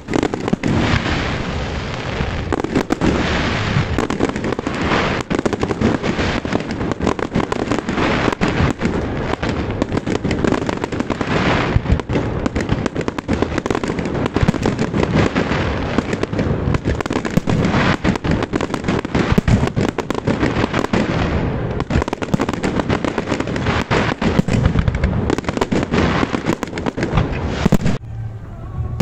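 Fireworks display: a dense barrage of aerial shells bursting, many sharp bangs and booms overlapping with hardly a gap, easing briefly near the end.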